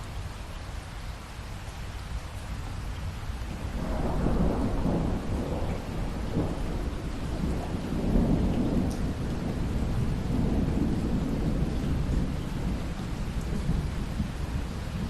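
Steady rain with rolling thunder: a low rumble builds about four seconds in, peaks around eight seconds, and eases off near the end.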